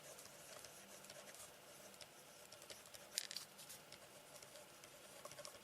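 Near silence: room tone with a few faint, brief scratches and ticks, the clearest about three seconds in.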